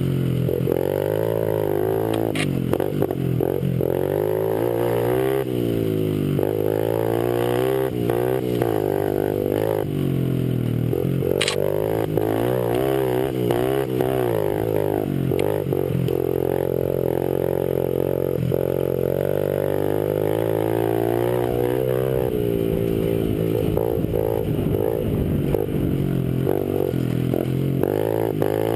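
Small Honda 50cc single-cylinder four-stroke pit bike engines revving up and down under throttle as they race, the pitch climbing and dropping again and again.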